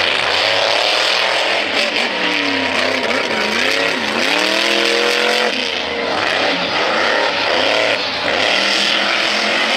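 Monster truck engine revving hard, its pitch swinging down and up several times, climbing highest about five seconds in.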